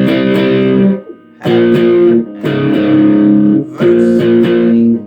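Guitar playing a melody of power chords, each chord struck twice, in four short groups with brief pauses between them.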